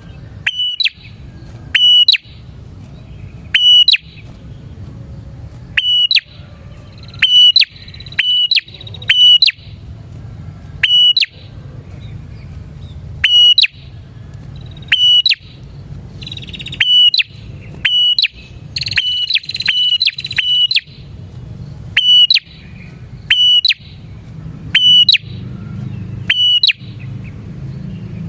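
Prinia (prenjak) calling persistently: loud, sharp, high chirps every second or two, sometimes in quick pairs or short runs, over a steady low rumble.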